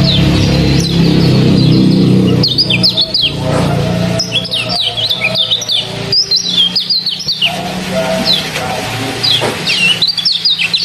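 White-eye (kecial) calls: quick high falling chirps in rapid clusters, repeated again and again, over a steady background hiss of trickling water. A low hum fades out about two to four seconds in.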